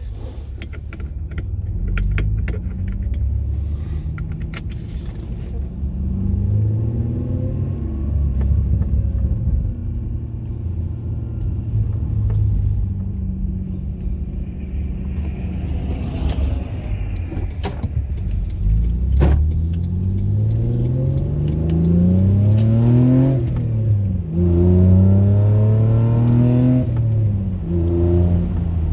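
Toyota 1MZ-FE 3.0 V6 running through headers with no catalytic converter and a straight 2¼-inch exhaust, heard from inside the cabin. It accelerates through the gears of the manual gearbox, the engine note rising and then dropping at each of several upshifts.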